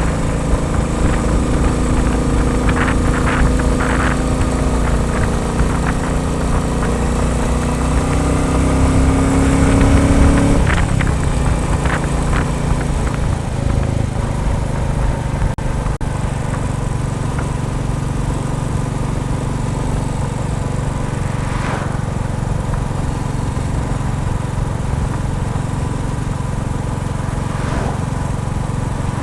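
Royal Enfield Bullet 350's single-cylinder engine pulling under load. Its revs and loudness climb for about ten seconds, then the throttle shuts suddenly and it runs on steadily at lower revs.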